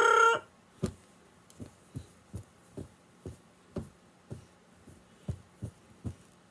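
A drawn-out vocal cry ends just after the start, followed by a string of about a dozen soft, low thuds, irregular and roughly two a second, over a faint steady hum.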